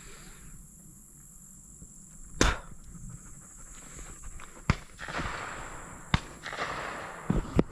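Shotgun shots in a dove field: about five reports, the first and loudest about two seconds in, then fainter, more distant ones, with two close together near the end.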